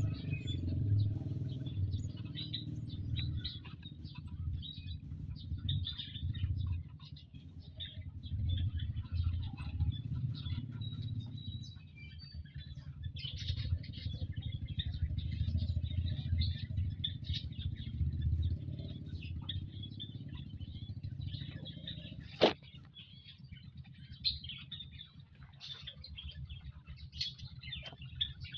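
Many short, high bird chirps over an uneven low rumble, with one sharp click about three-quarters of the way through.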